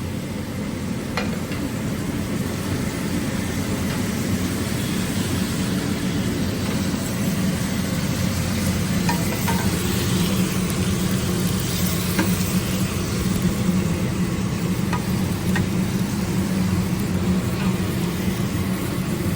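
Chicken stock sizzling and bubbling in a hot pan around pieces of chicken, a steady hiss that builds slightly as it heats, over a constant low hum.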